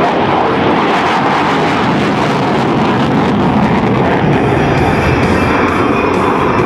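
F-16 Fighting Falcon's F110-GE-129 turbofan at takeoff power during the takeoff roll: loud, steady jet noise.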